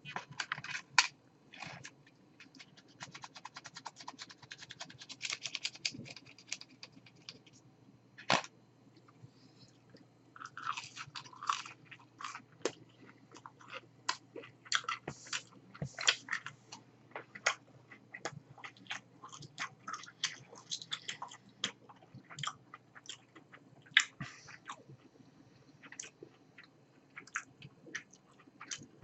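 A person chewing McDonald's chicken nuggets, the crunchy fried coating crackling in irregular clusters of small crunches.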